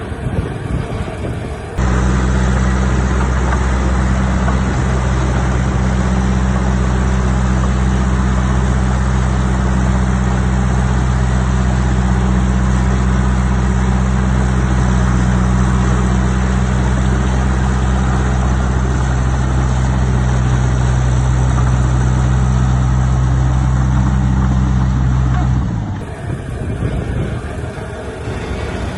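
Heavy diesel engine of earthmoving equipment running steadily at constant speed with a deep, even drone. It cuts in abruptly about two seconds in and cuts out shortly before the end, leaving a quieter, rougher engine noise.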